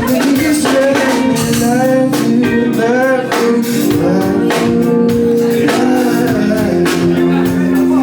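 A singer performing a soul song with a live band: a sung melody over held chords, guitar and drums.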